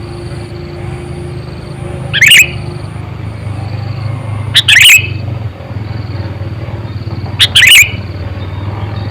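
Sooty-headed bulbul (kutilang), a captive decoy bird, giving three loud, short calls with bending pitch a couple of seconds apart. A steady low hum runs underneath.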